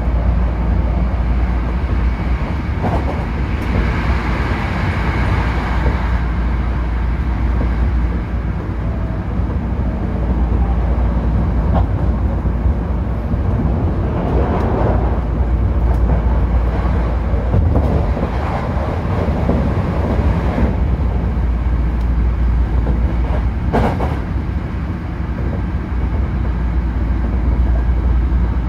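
Running noise inside a Hankyu Railway limited express train at speed: a steady low rumble of wheels on rail that swells now and then, with a few sharp clicks.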